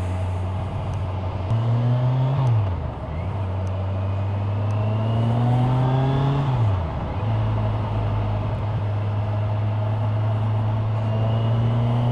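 Kawasaki Ninja 1000SX inline-four motorcycle engine heard from a helmet camera. It rises in pitch under throttle and falls back sharply twice, then holds a steady, slowly climbing note, with a constant rush of wind and road noise.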